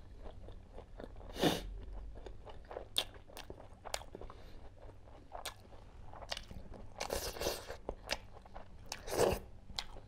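A person chewing and biting egg and chicken curry close to the microphone: wet chewing clicks and smacks, with louder bites about a second and a half in, around seven seconds, and just after nine seconds.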